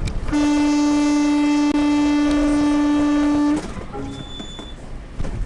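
A vehicle horn sounding in one long steady blast of about three seconds, with a brief break about a second and a half in, over road noise.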